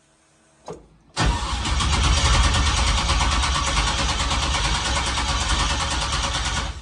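Swapped aluminum 6.0 LS V8 in a 1965 Chevy Nova started with the key; it catches about a second in, runs loud and steady for about five seconds, then stops abruptly. The crew judges that something is not right with how it runs on its freshly reset throttle position sensor.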